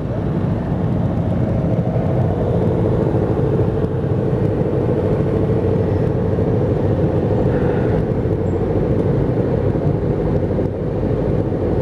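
Aprilia Tuono V4 RR's V4 engine running steadily at an even, unchanging engine speed.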